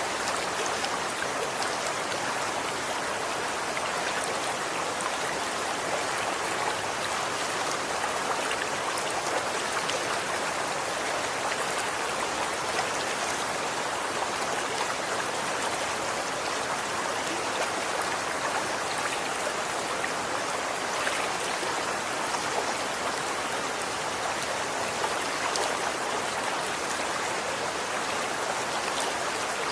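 Running water flowing steadily: an even, continuous hiss of moving water with faint tiny ticks scattered through it.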